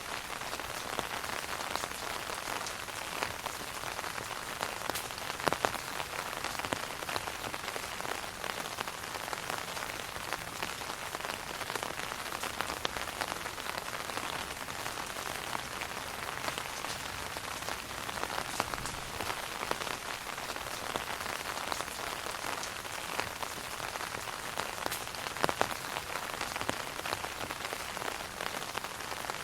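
Steady rain falling on an umbrella: a continuous hiss of drops, with a few louder single drops about five and a half seconds in and again near the end.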